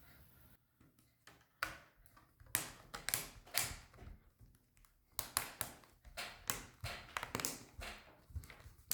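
Small plastic clicks and taps, irregular and starting about a second and a half in: the Google Nexus 10 tablet's removable plastic inlay being pressed back into place on its back casing.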